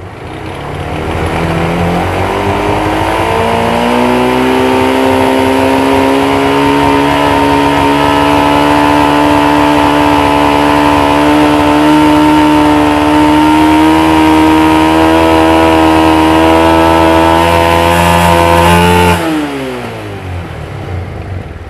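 Motorcycle engine revved up over the first few seconds and held at a steady high speed, then dropping back to idle near the end.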